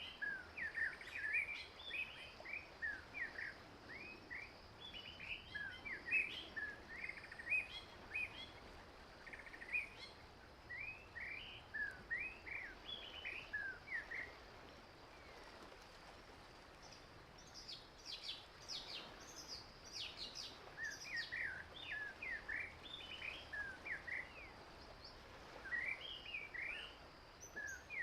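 Small wild birds chirping in quick runs of short notes over a faint steady hiss. There is a brief lull a little past halfway, then a burst of higher, thinner notes before the chirping picks up again.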